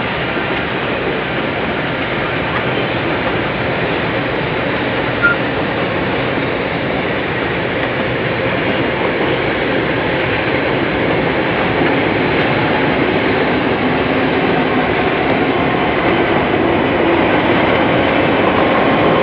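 Clyde-built T-class diesel-electric locomotive hauling a passenger train, engine and wheels on rail making a steady, continuous noise that grows gradually louder as the train approaches. A brief click about five seconds in.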